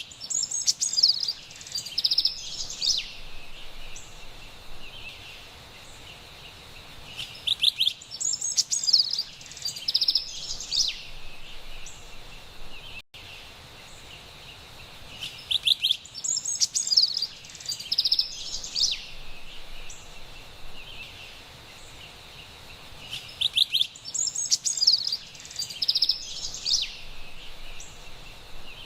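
Carolina wren singing in four bouts of bright, rapid chirping phrases about eight seconds apart, each lasting a few seconds, over faint steady forest background noise with a thin high tone. The sound cuts out completely for an instant about halfway through.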